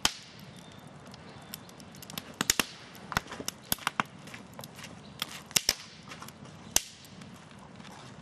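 Wood campfire crackling, with sharp irregular pops: a loud one at the start and a few more scattered through.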